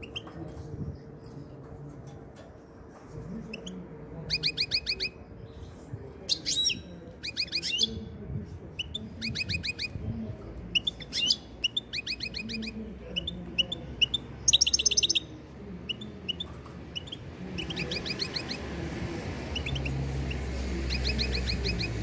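European goldfinches calling: bouts of rapid, repeated high chirps, each bout about a second long, coming again and again with short pauses between them.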